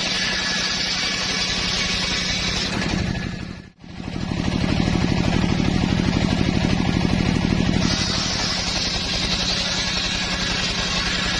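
Homemade engine-driven circular saw running steadily. The sound drops out sharply a little under four seconds in, comes back louder with a throbbing beat for about four seconds, then settles again.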